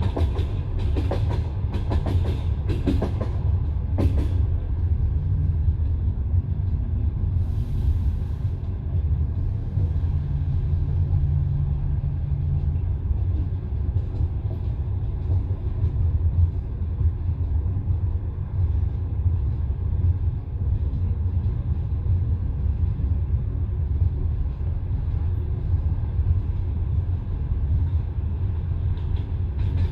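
Passenger railway carriage running along the line, heard from inside the car: a steady low rumble of the wheels on the rails, with a run of sharp clacks over rail joints in the first four seconds and a brief hiss about eight seconds in.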